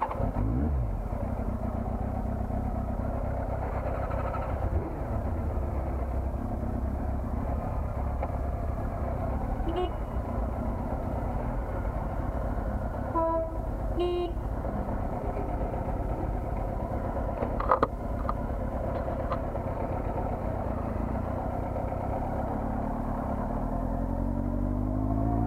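Honda CBR400RR's inline-four engine running loud and steady while riding, revving up near the end. A horn toots twice, briefly, about halfway through.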